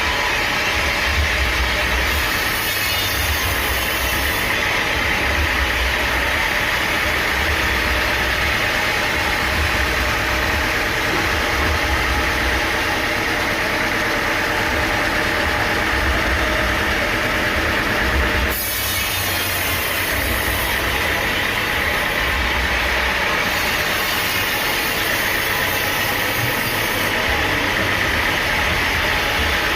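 Sawmill machinery running steadily: an engine hum under constant mechanical noise, with a brief dip about two-thirds of the way in.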